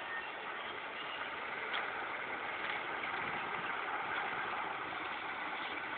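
Virgin Trains Class 47 diesel locomotive's engine running steadily at idle.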